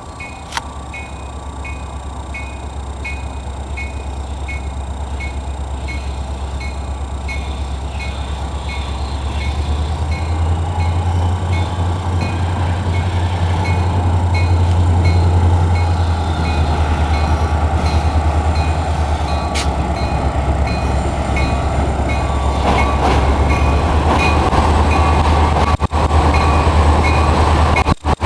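A diesel-hauled passenger train approaching and passing. The deep locomotive engine rumble grows louder through the first half, then stays loud. A regular high ringing, likely a level-crossing bell, repeats throughout.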